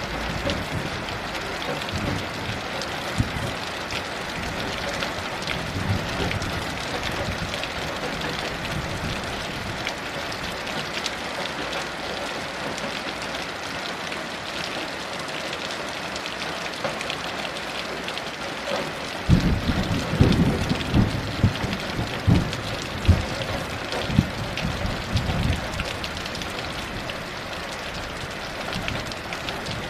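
Steady heavy rain hissing, with a low rumble of distant thunder swelling for several seconds about two-thirds of the way through.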